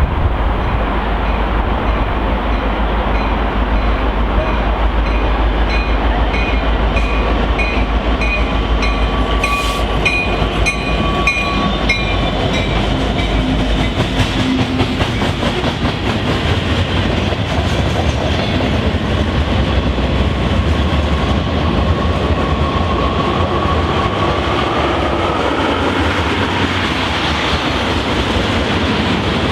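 Train rolling past close by, its wheels clicking over the rail joints in an even rhythm amid steady rumbling noise.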